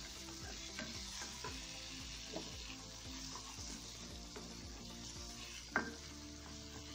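Onion-and-spice masala paste sizzling in hot oil in a kadhai while a spatula stirs and scrapes through it, with a few sharp knocks of the spatula on the pan, the loudest near the end. The masala is being fried down until the oil separates.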